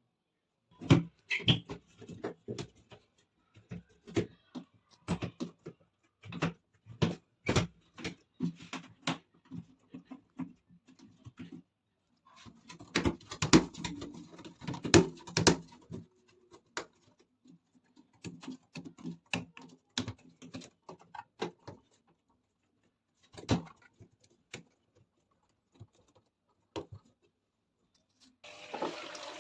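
Irregular sharp clicks and knocks from handling an IFB front-load washing machine. About a second before the end, water starts rushing into the machine as it begins to fill.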